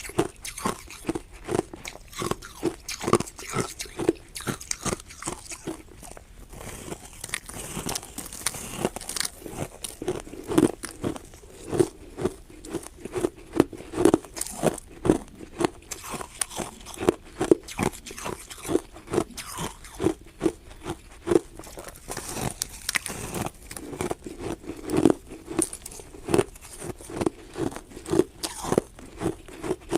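Ice being bitten and chewed close to the microphone: a steady run of sharp, crisp crunches, about two a second.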